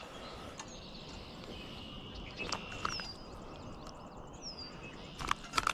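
Outdoor creekside background: a steady high insect drone with two short, falling bird whistles, and a few sharp clicks and taps, most of them in the second half.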